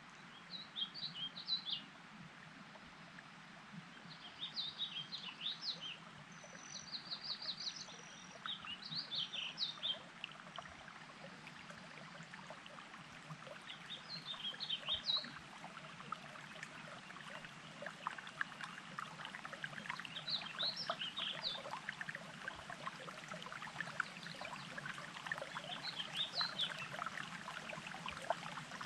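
A songbird singing short, quick phrases every few seconds, over the steady burble of running water that grows louder in the second half.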